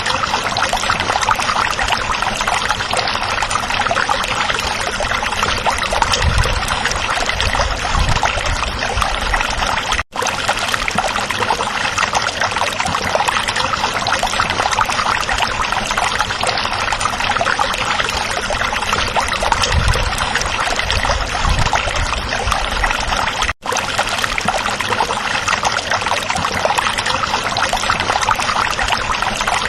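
A small stream flowing and trickling over rocks, a steady, even babble of water. It cuts out for an instant twice, about ten seconds in and again at about twenty-three seconds.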